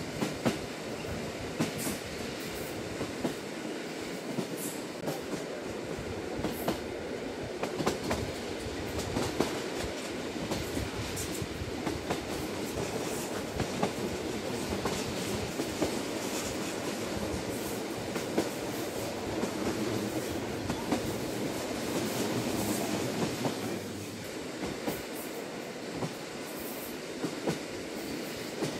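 Limited express electric train running at speed, heard from inside the passenger carriage: a steady rolling rumble with scattered sharp clicks from the wheels on the rails.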